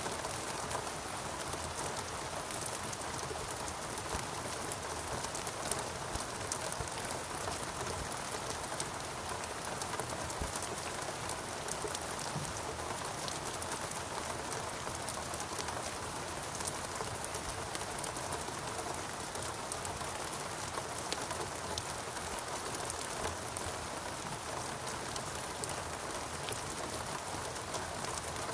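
Steady rainforest rain falling on foliage, a continuous hiss with many individual drops pattering, a few slightly louder drips standing out now and then.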